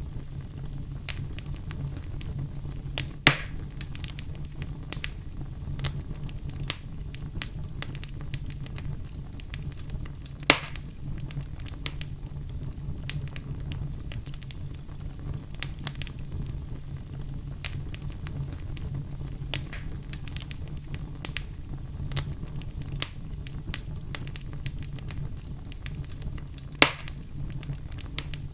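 Fire in a fireplace crackling, with a steady low rumble under many quick small snaps. Three louder pops stand out, about three, ten and twenty-seven seconds in.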